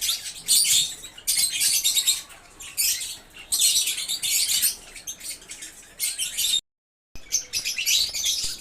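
Fischer's lovebirds chirping in repeated shrill, chattering bursts. The sound cuts out completely for about half a second roughly two-thirds of the way through.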